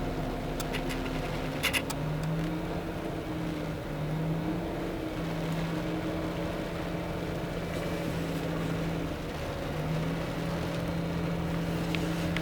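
Truck engine running while driving, heard from inside the cab, its hum stepping up and down in pitch a few times as the engine speed changes.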